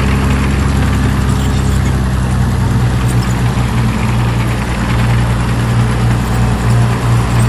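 Heavy diesel engine of earthmoving machinery running steadily with a constant low hum and no changes in pitch.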